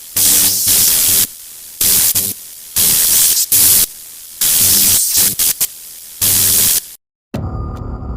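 Loud static hiss cutting abruptly on and off in blocks, alternating with a lower electrical buzz. It drops to silence about seven seconds in, and music starts just before the end.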